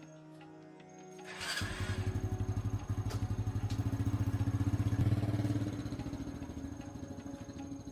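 1980s Honda motorcycle engine catching about a second and a half in and running with a fast, even firing beat. It grows louder for a few seconds, then eases back toward an idle. Background music underneath.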